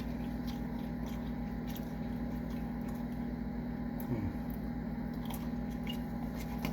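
A person chewing and eating fast food, with small wet clicks and crunches over a steady low hum.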